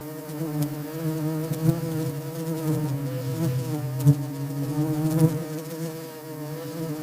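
A flying insect's wings buzzing: a steady, low, droning hum with a slight wavering pitch, with a few brief ticks over it.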